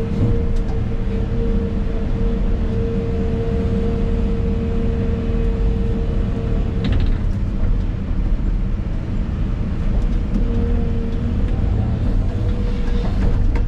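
Excavator's diesel engine and hydraulics running, heard from inside the cab: a steady low rumble with a whine over it that drops out about halfway through and comes back a few seconds later, with a sharp click as it drops.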